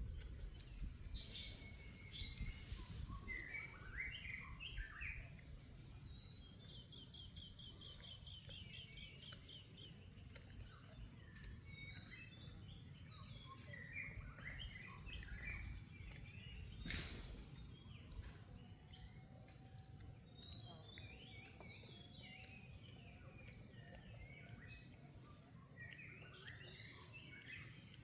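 Wild birds chirping on and off, with one rapid trill of repeated notes about a quarter of the way in, over low outdoor rumble. A faint steady high tone runs underneath, and a single sharp click comes a little past halfway.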